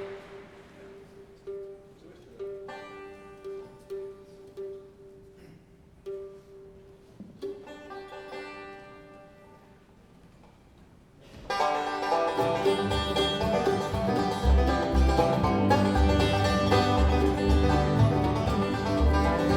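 Bluegrass band playing. A quiet, sparse intro of repeated plucked notes runs for about eleven seconds, then the full band comes in loudly with a steady low bass beat.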